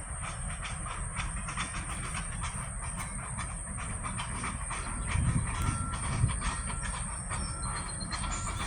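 Local freight train rolling past: a steady low rumble with wheels clicking over the rail joints, a few heavier thumps about five seconds in, and some faint, brief squeals in the second half.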